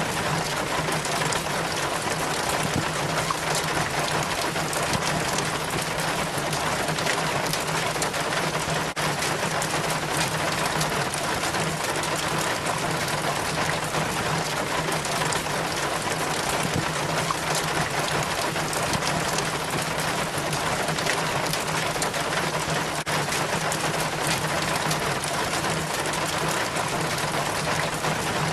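Rainwater trickling and splashing down a rain chain from the gutter, a steady dense patter with a faint low hum beneath it.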